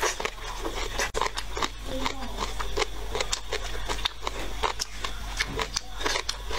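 Close-miked eating: a mouthful of rice noodles and vegetables taken in and chewed, with a steady run of small wet clicks and crunches.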